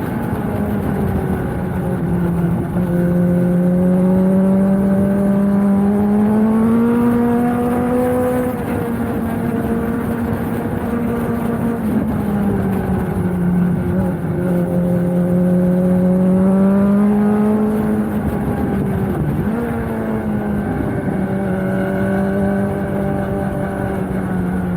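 Suzuki GSX-S750's inline-four engine through a Yoshimura slip-on exhaust, ridden at steady speed, its pitch climbing slowly twice as the bike pulls and dropping back after each, with a quick dip and recovery near the end.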